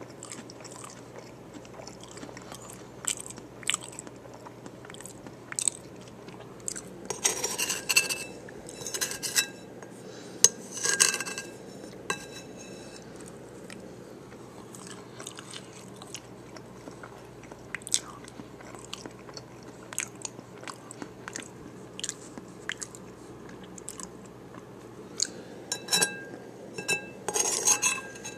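Chewing a taco bowl in a hard taco shell, with bursts of loud crunching about seven seconds in, around eleven seconds and again near the end, and scattered sharp clicks in between.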